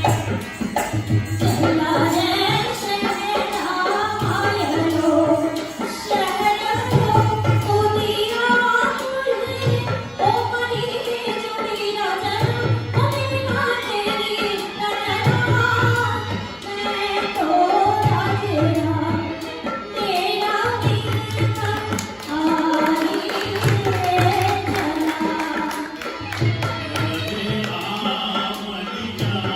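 Rajasthani folk song performed live: a singer's voice over a hand drum keeping a steady beat, with deep strokes about once a second, and jingling percussion above.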